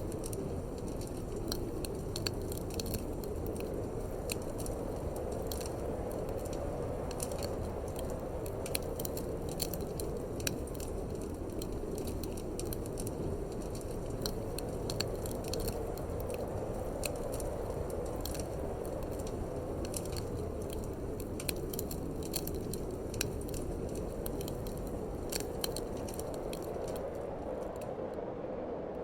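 Wood fire in a fireplace crackling, with frequent irregular sharp pops and snaps, over a steady low rush of wind.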